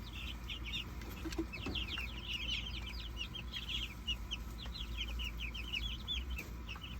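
A flock of Cornish Cross meat chicks and Rhode Island Red cockerel chicks, about twelve days old, peeping without a break: many short, high, downward-falling peeps overlapping one another.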